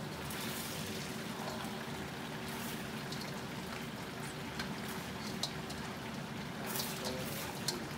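Flour-coated lobster pieces sizzling in hot oil in a wok, with a spatula scraping and clicking against the pan as they are turned; several sharp clicks stand out over the steady sizzle in the second half.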